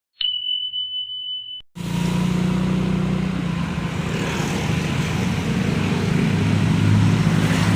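A steady high beep for about a second and a half, then roadside street noise with a vehicle engine running close by.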